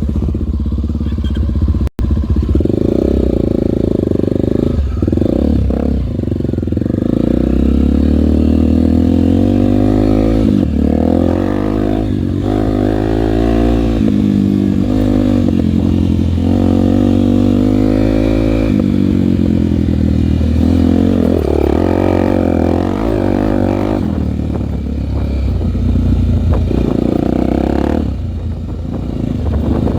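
Single-cylinder four-stroke Honda trail bike being ridden, its engine revs rising and falling repeatedly.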